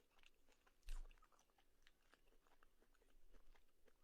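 Close-up chewing of steak with its fat: soft wet clicks and smacks, with one louder click about a second in.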